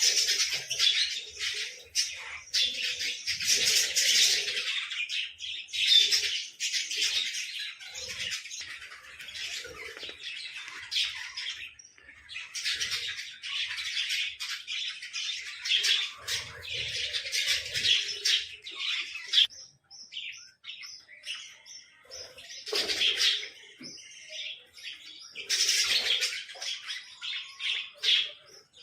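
Small birds chirping and chattering in rapid, dense bursts, with a couple of brief lulls partway through.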